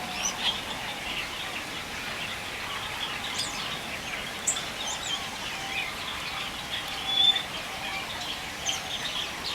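Many birds chirping and twittering at once, a steady chorus of short overlapping calls.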